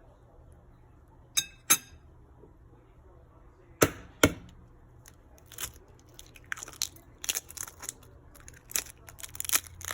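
A fork knocking and clinking against a bowl while pressing and mashing tuna. There are two ringing clinks about a second and a half in, two sharper knocks near four seconds, and then a quicker run of lighter taps and scrapes.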